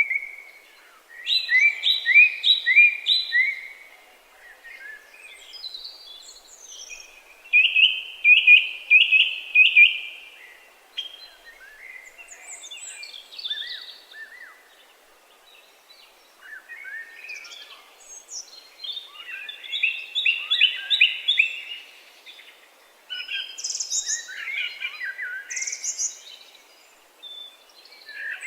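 Songbirds singing: short phrases of quick repeated chirping notes, one after another every few seconds, over a faint steady background hiss.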